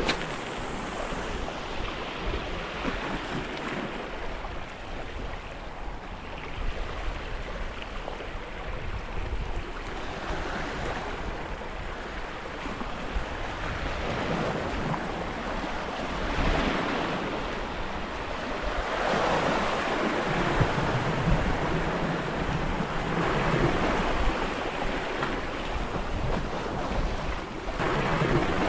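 Sea waves washing against coastal rocks, swelling and easing every few seconds, with some wind on the microphone.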